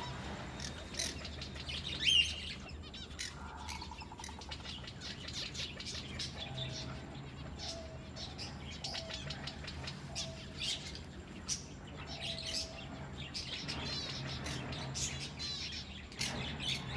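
A mix of birds calling: many quick high chirps throughout, one loud rising call about two seconds in, and a run of short, lower repeated notes in the middle, over a steady low hum.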